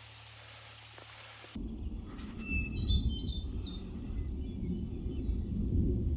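Songbirds chirping, a scatter of short high notes, over a low uneven rumble. The first second and a half is a steady hiss that stops abruptly at a cut.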